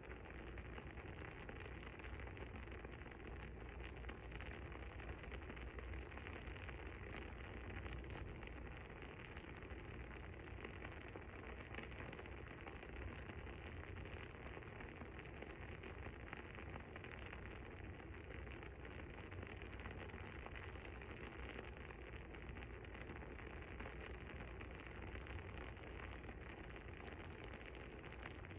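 Fire crackling softly and steadily, with many small irregular pops over an even low hiss.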